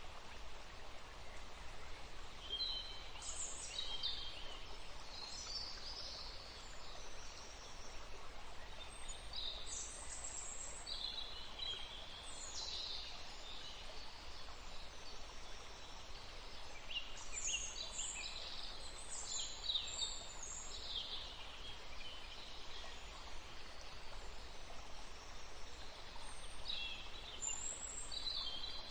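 Songbirds chirping and singing in scattered bursts of short high notes, busiest in clusters about a third and two thirds of the way through, over a steady low background hum.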